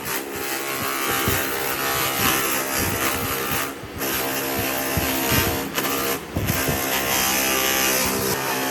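An electric power tool running steadily with a motor whine and grinding noise, cut off abruptly and restarting twice, about four seconds in and again a couple of seconds later.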